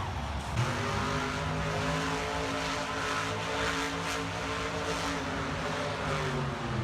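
Monster truck engine running at steady revs, one continuous droning tone.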